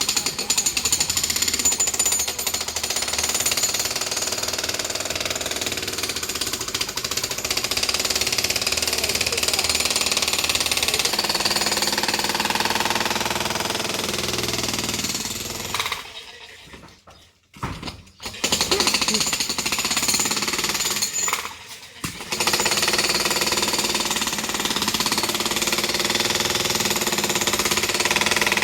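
Jackhammer breaking up an old masonry boundary wall, hammering continuously. It stops twice for short breaks, once for about a second and a half past the middle and again briefly a few seconds later.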